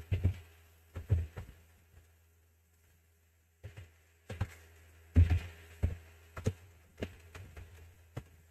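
A string of short, irregular knocks and clicks, some in quick pairs, over a faint low hum.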